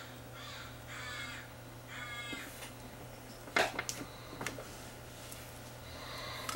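Four harsh cawing bird calls in the first two and a half seconds, then a few sharp clicks. The loudest click comes about three and a half seconds in.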